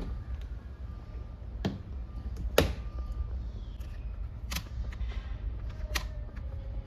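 Four sharp knocks and clicks from handling the Mabe semi-automatic twin-tub washer just after its spin cycle has stopped, the loudest about two and a half seconds in, over a low steady hum.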